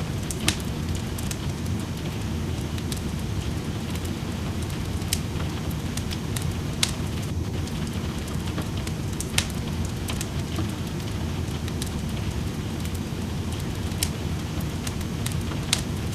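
Wood fire in a fireplace crackling, with a handful of sharp pops a few seconds apart, over steady rain.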